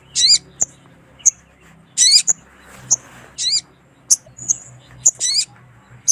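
Sogon (ruby-cheeked sunbird) calling: sharp, very high single chirps mixed with four short wavering calls, each about a third of a second long. This is a female's call used to lure and stimulate males.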